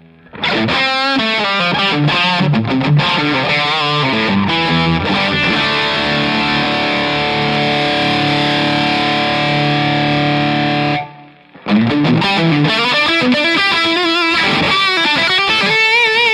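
Electric guitar played through a StewMac Two Kings Boost dual overdrive pedal with both gain sides up, heavily distorted: quick riffing, then a long held chord that stops sharply about eleven seconds in, and more riffing after a short gap. Between the notes only a little noise from the high gain remains.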